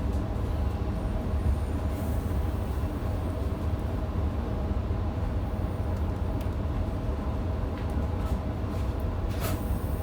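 Electric passenger train running on the rails, heard from inside the carriage: a steady low rumble with a faint even hum, and a few light clicks from the wheels near the end.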